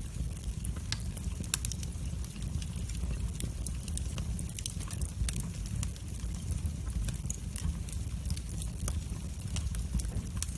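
Wood fire burning in a fireplace: a steady low rumble of flames with frequent, irregular sharp crackles and pops from the logs.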